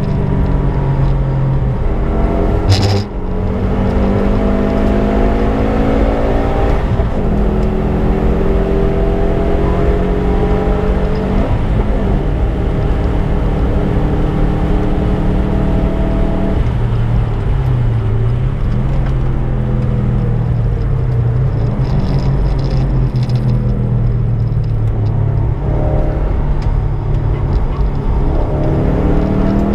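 Subaru Impreza's flat-four engine under hard track driving: its note repeatedly climbs in pitch under acceleration, then drops back at gear changes and lifts, with a sharp knock about three seconds in.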